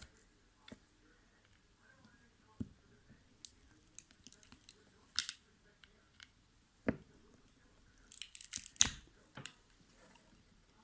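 Plastic headphone housing being pried and broken apart to free the speaker: scattered clicks and knocks, then a burst of crackling about eight seconds in that ends in a sharp snap.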